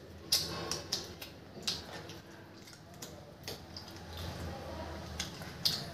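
A person chewing a mouthful of chicken curry and roti: irregular wet smacks and mouth clicks.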